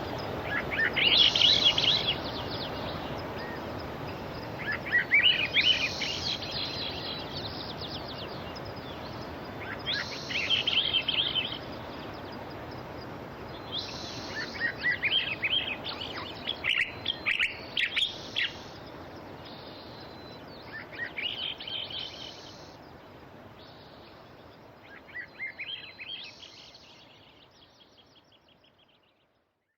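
Steady wash of sea surf, with a songbird singing a short chirping phrase every few seconds over it. The whole sound fades out near the end.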